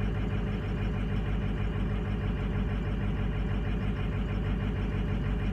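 Eight-cylinder truck engine idling with a steady, slightly uneven low pulsing: it runs rough on worn injectors, with cylinders 1, 2, 4, 6 and 8 dropping out.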